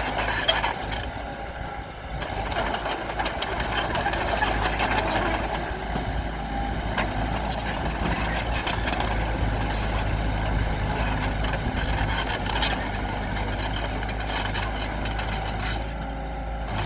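Bulldozer's diesel engine running steadily under load, with many short clanks and scrapes from the blade and tracks working among rocks.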